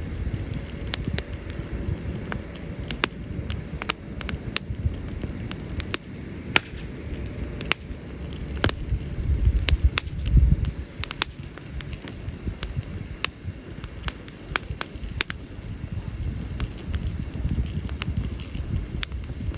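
Wood campfire crackling, with sharp, irregular pops and snaps over a steady low rumble that swells briefly about halfway through.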